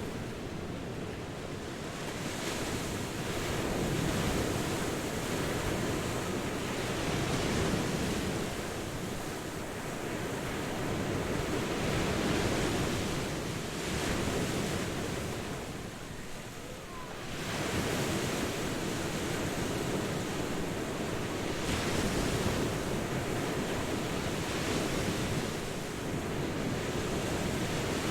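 Ocean waves washing onto a shore, a continuous surf that swells and ebbs every few seconds, with a brief lull about two thirds of the way through.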